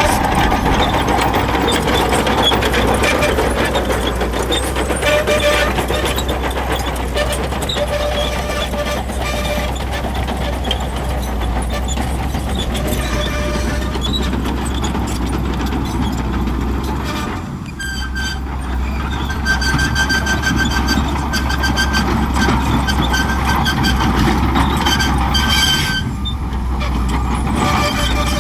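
Shantui bulldozer working: its diesel engine running under load with a steady low drone, over the clatter of the machine, with short high squeals coming and going; the sound dips briefly twice, in the second half.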